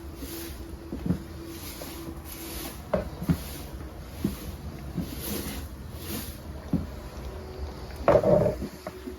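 Scattered knocks and thumps, about eight of them, over a steady low rumble, with a louder clatter about eight seconds in.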